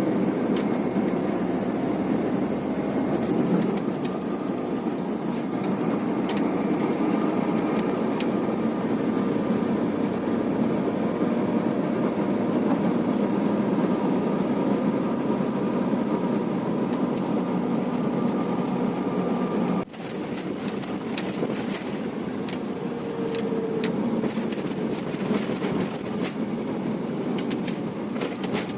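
Heavy truck's engine running steadily, with road noise, heard from inside the cab. Short clicks and rattles come through in the later part, and the sound dips sharply for a moment about twenty seconds in.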